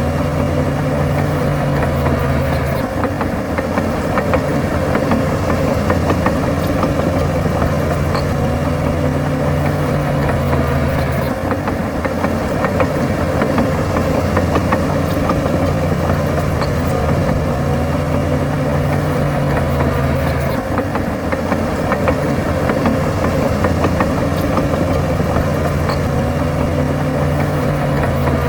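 Heavy diesel engine of a crawler bulldozer running continuously. Its note alternates in a repeating cycle of roughly nine seconds, a steady hum for several seconds, then a rougher, noisier stretch.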